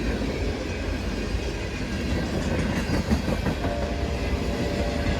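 Freight train cars rolling past with a steady low rumble and occasional clicks of wheels over the rail joints. A faint steady tone comes in about two-thirds of the way through.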